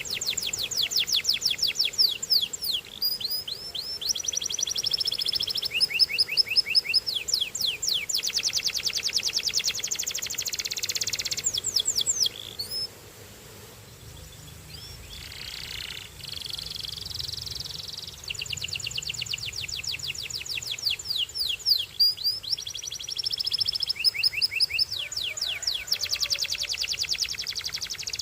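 Canary singing: fast trills of rapidly repeated sweeping notes, changing speed from phrase to phrase, with a pause of a few seconds about halfway before the song starts again.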